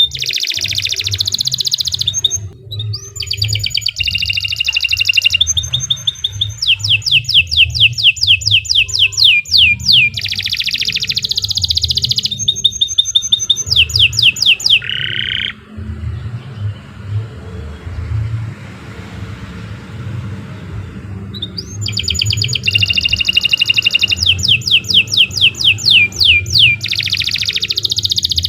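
Domestic canary singing a long song of fast trills and rapidly repeated high notes. It breaks off for several seconds about halfway through, then starts again, over a low steady hum.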